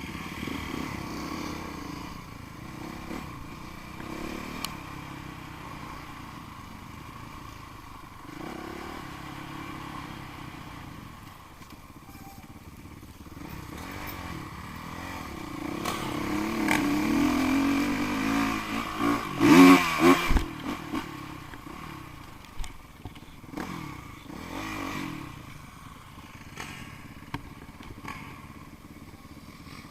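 Dirt bike engines revving up and down as the bikes are ridden off-road. One gets louder from about halfway through and is loudest about two-thirds of the way in, with a short burst of clattering, then the engine noise drops back.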